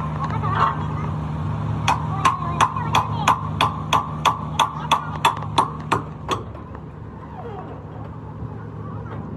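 A hammer striking metal about fourteen times at a steady three blows a second, each blow ringing, stopping a little past halfway. An engine hums steadily underneath.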